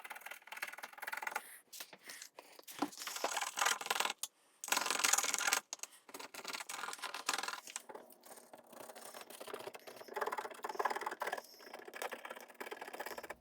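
Plastic scraping tool scraping solvent-softened tape residue off a car's painted body, in repeated irregular strokes.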